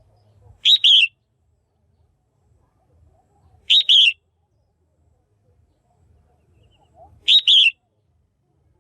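Female red-whiskered bulbul calling: three short two-note calls, about three and a half seconds apart.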